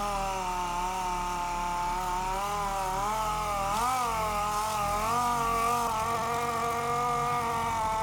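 Electric sander running on dried body filler, its motor whine sagging and recovering as the pad is pressed, with a deeper dip about four seconds in.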